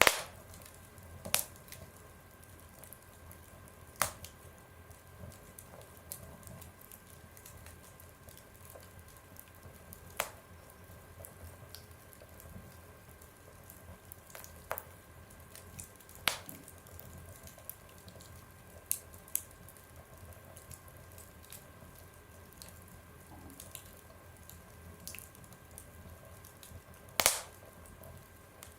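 Wood fire burning in a stove, with sharp crackles and pops every few seconds over a low steady rumble.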